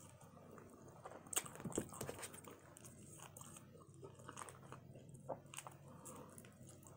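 Faint close-miked chewing of barbecue rib tips and fries: wet mouth sounds and small crunches, loudest a little over a second in. Later come light clicks and rustles as a small paper packet is handled and torn open.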